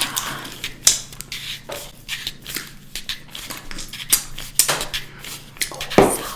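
Candy packaging and candy being handled: scattered crinkles, clicks and taps of plastic, with a sharper knock about six seconds in.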